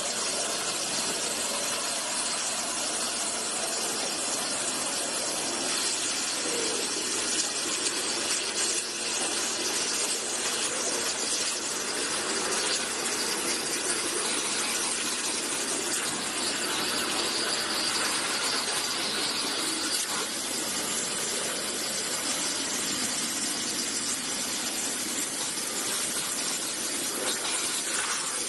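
Waterjet cutting machine's high-pressure water jet running, a steady, high-pitched hiss that holds at an even level.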